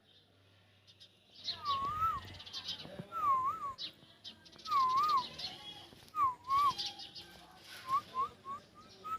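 A bird repeating a clear whistled phrase, a note that dips and rises in a wave, five times about once every second and a quarter, then a run of short quick rising notes near the end. Fainter high chirps from other birds sound alongside.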